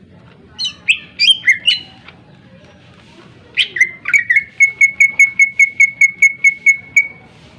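Greater green leafbird (cucak ijo) singing: a quick cluster of loud, varied whistled notes, then after a short pause a fast run of identical sharp notes, about five a second, that stops a few seconds later.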